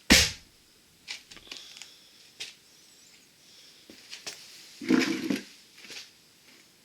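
Engine parts and hand tools handled on a workbench during the teardown of a two-stroke motorcycle engine's crankcase: a sharp metallic knock at the start, scattered small clicks, and a short clattering rattle about five seconds in.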